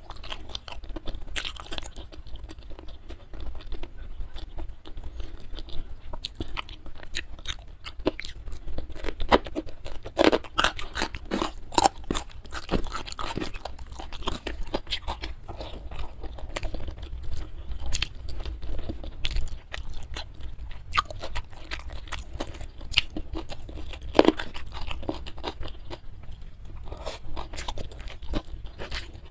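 Close-miked chewing and crunching of food with the mouth full: a continuous run of short, sharp crunches and wet chewing, busiest around ten to thirteen seconds in.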